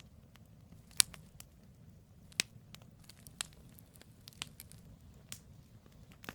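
Campfire of burning firewood logs: sharp crackles and pops about once a second over a low, steady rumble of the fire. The loudest pop comes about a second in.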